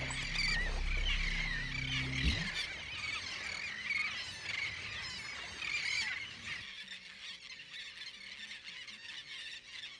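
Dense chorus of many small birds chirping and twittering throughout, over low sustained musical tones that cut off with a thud a little over two seconds in.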